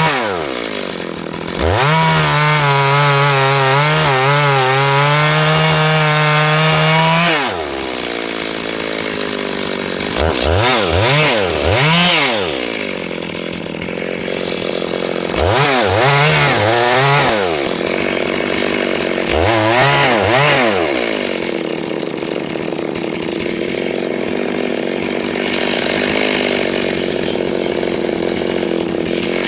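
Two-stroke chainsaw running at full throttle for several seconds, then dropping to idle. It is blipped up and down a few times and settles at a steady idle.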